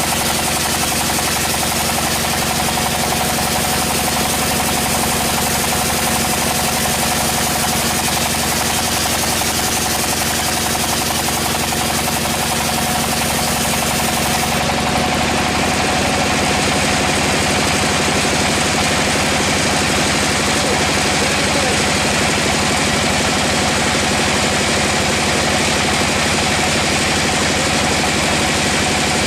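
Sawmill machinery running: a steady, loud mechanical drone with steady humming tones. The sound changes character about halfway through.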